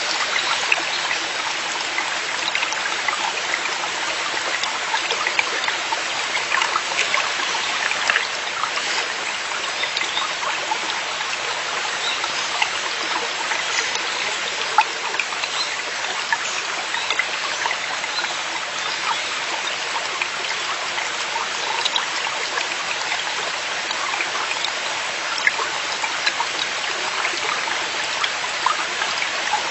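Mountain stream flowing and splashing over rocks, a steady rush of water with many small trickles and splashes.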